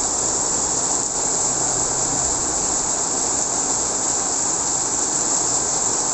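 Heavy rain and strong wind in a night storm: a steady, loud rushing hiss with a low rumble underneath.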